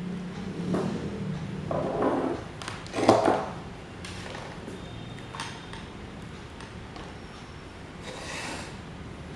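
A few knocks and clatter of metal parts being handled, the loudest a sharp metallic clack about three seconds in, over a steady low hum.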